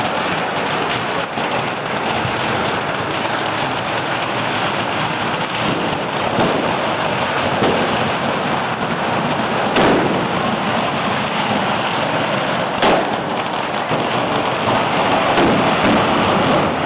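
Large bonfire burning with a continuous dense crackle and rumble while bangers go off, the sharpest bangs about ten and thirteen seconds in.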